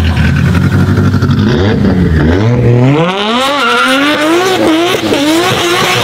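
Nissan Skyline GT-R's twin-turbo straight-six running at a low, steady note, then from about two seconds in the revs climb hard as the car launches away with wheelspin, the pitch rising and dipping several times.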